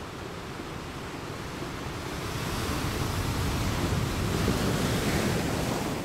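Small ocean waves breaking and washing up a sandy beach. The surf sound swells over a few seconds as a wave comes in, then eases near the end.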